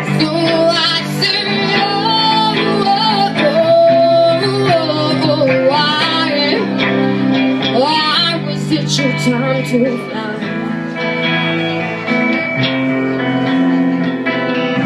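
Live rock band playing a passage without lyrics: guitars over a steady bass, with a wavering lead melody line in the first half and cymbal hits further on.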